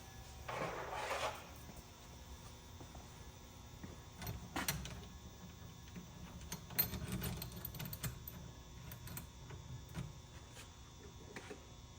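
Faint handling noise: a short rustle about half a second in, then scattered clicks and light knocks. The grinder is not running.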